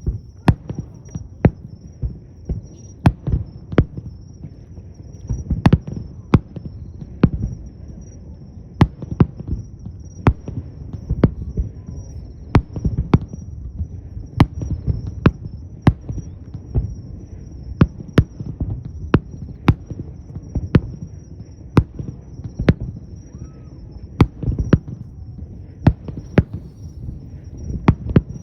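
Fireworks display: aerial shells bursting in a rapid, irregular string of sharp bangs, about one or two a second, over a continuous low rumble of booms and echoes.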